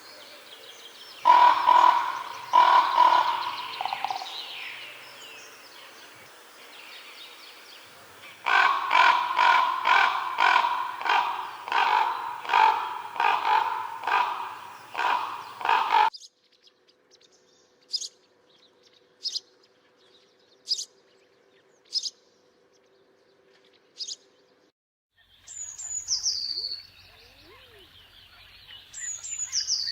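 A run of different bird calls joined by sudden cuts. First come repeated harsh calls, about two a second. Then come single sharp high chirps a second or so apart. Near the end there are two falling whistled calls.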